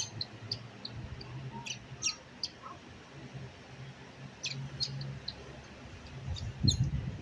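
Baby monkey squeaking: short, high-pitched squeaks that come irregularly, some in quick little clusters. A low hum runs underneath, and there are a few knocks near the end.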